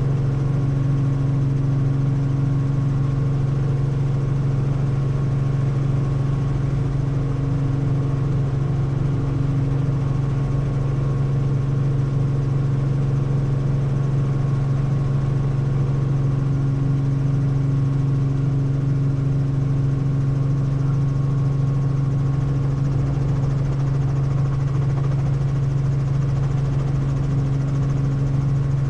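Helicopter engine and rotor drone heard in flight: a loud, steady low hum with fainter constant tones above it, unchanging throughout.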